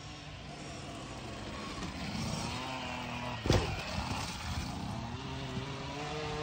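Dirt bike motors running on a motocross track, their pitch rising and falling with the throttle, with one sharp thump about three and a half seconds in.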